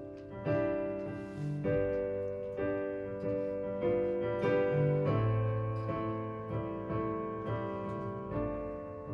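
Piano chords played slowly, a new chord about every second, each left to ring.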